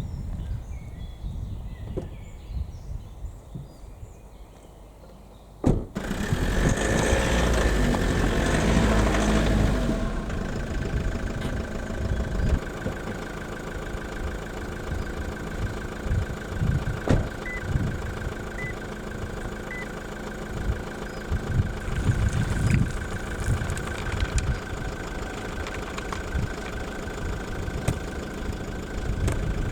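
Toyota RAV4 engine started about six seconds in, loud for a few seconds, then running steadily. Three short beeps sound near the middle.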